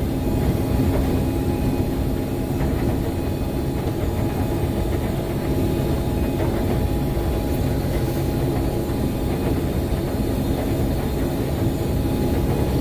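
Combine harvester running steadily while harvesting soybeans: a continuous engine and machinery drone with a few steady low hums and no changes.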